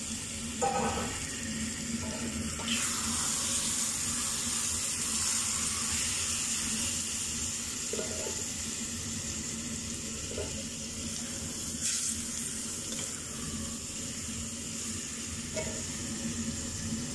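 Marinated chicken cubes sizzling in butter and oil in a stainless steel pot, a steady frying hiss from the wet marinade hitting the hot fat, with a few brief knocks.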